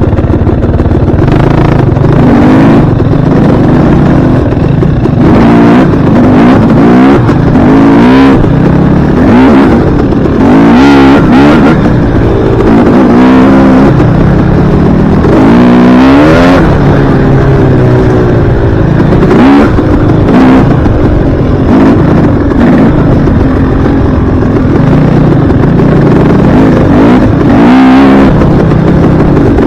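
Dirt bike engine being ridden hard, its pitch rising and falling over and over as the throttle is opened and closed.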